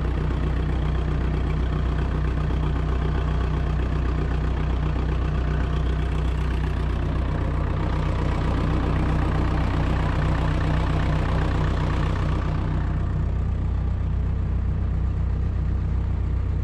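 Diesel engine of an ASV RC85 compact track loader idling steadily as it warms up after a cold start in the snow.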